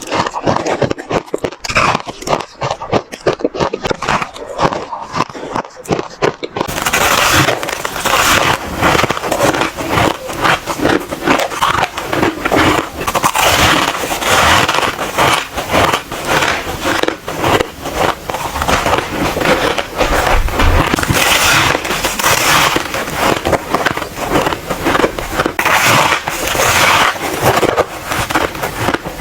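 White ice being bitten and chewed close to the microphone: continuous, dense crunching and crackling, sounding crisper from about seven seconds in.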